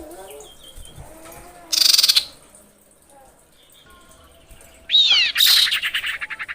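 Female common iora calling: a short fast rattle of high notes about two seconds in, then a downward-sliding whistle that runs straight into a longer fast rattle.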